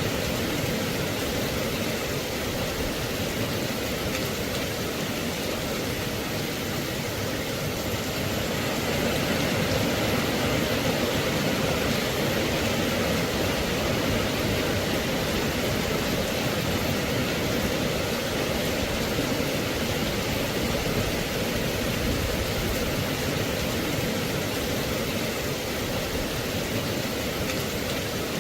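Steady rain, a constant even hiss with no distinct drops or thunder standing out.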